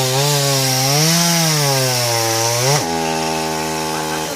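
Chainsaw cutting into a tree, its engine pitch wavering as the bar takes load. About three seconds in, the pitch drops sharply and the engine holds a steady lower note.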